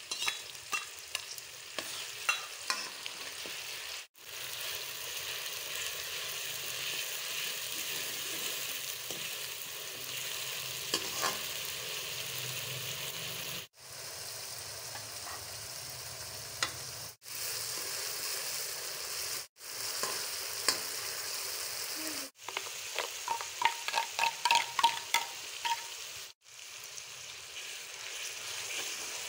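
Oil sizzling as onions and masala fry in a metal kadai, stirred with a steel ladle. Near the end the ladle scrapes and clinks against the pan in a quick run of sharp taps. The sizzle cuts out abruptly for an instant several times.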